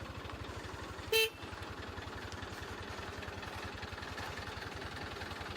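Motorcycle engine running steadily at low speed, with one short horn beep about a second in.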